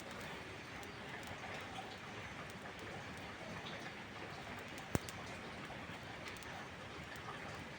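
Steady rain with faint scattered crackles from a wood fire, and one sharp pop about five seconds in.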